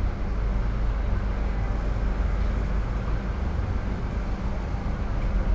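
A car engine idling and creeping forward in slow traffic, heard from a camera mounted on the car's hood: a steady low drone at a fixed pitch over even running noise.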